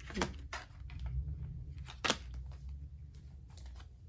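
Tarot cards being handled: a few short, sharp snaps and rustles of the cards, over a steady low hum.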